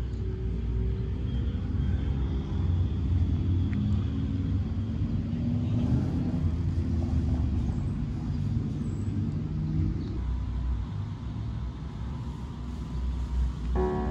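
Low, steady rumble of an idling vehicle engine, with a faint steady tone joining about ten seconds in.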